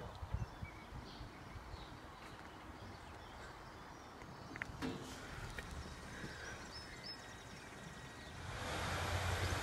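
Quiet outdoor background with a few faint high chirps, then, near the end, the noise of an approaching train rising steadily in loudness.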